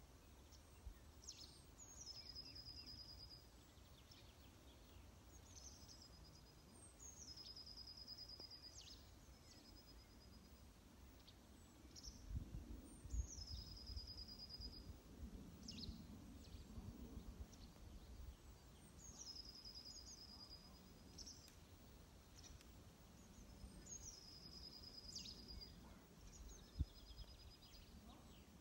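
Near-silent outdoor quiet with a songbird singing the same short phrase over and over, about every three seconds. Each phrase is a quick falling note that slides into a steady high trill. A faint low rumble runs underneath, with a few soft thumps about halfway through.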